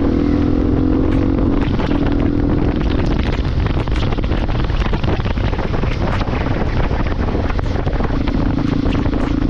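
Motorcycle riding along with heavy wind rushing over the microphone. A steady engine hum shows through at the start, fades under the wind in the middle and returns near the end, with many small ticks and taps over the rush.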